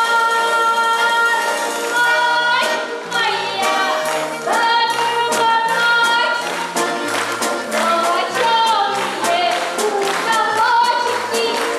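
A folk song with accordion accompaniment: the accordion holds a chord for about two seconds, then a singing voice comes in over a moving bass line.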